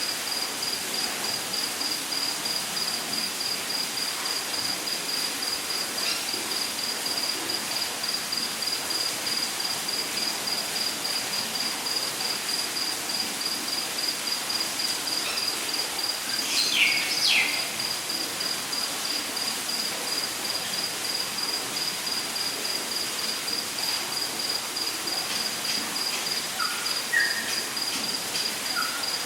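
Rainforest ambience: an insect trilling steadily in a rapid, high-pitched pulse over an even background hiss. A bird gives two quick falling calls about halfway through, and a few short chirps come near the end.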